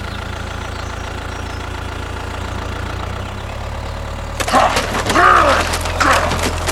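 Small engine idling steadily with a low, even hum. About four and a half seconds in, a louder rush of noise starts over it, with wavering pitched cries on top.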